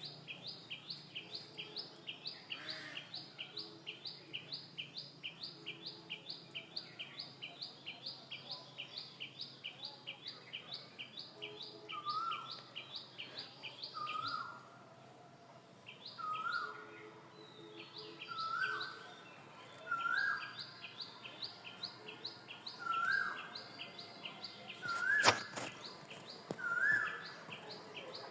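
Birds calling: a fast, even run of high chirps at about three or four a second, with a lower rising call repeated every couple of seconds from about halfway through. A single sharp knock comes near the end.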